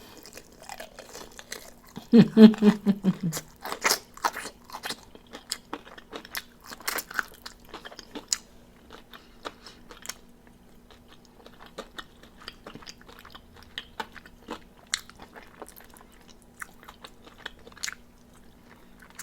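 Close-up eating of crispy battered fried chicken wings: crisp crunches and chewing clicks, thicker in the first half and sparser later. A short hummed voice sound comes about two seconds in.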